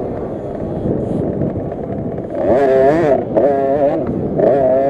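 KTM 50 SX minibike's 50cc two-stroke engine racing under throttle. It runs rough and low for the first two seconds, then revs up and down in pitch with a brief lift off the throttle, and climbs again near the end.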